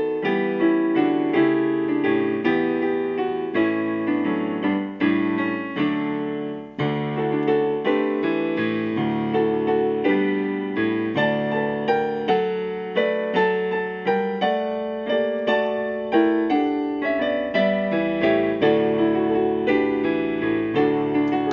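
Piano playing a continuous stream of struck notes and chords, each note ringing and fading.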